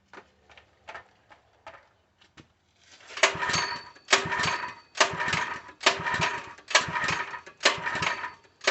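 Small Harbor Freight 3 hp engine being pull-started over and over, about one pull a second: the recoil starter whirs and the engine turns over without firing. It won't start, which the owner puts down to a fuel delivery problem. A few light clicks come before the pulls begin.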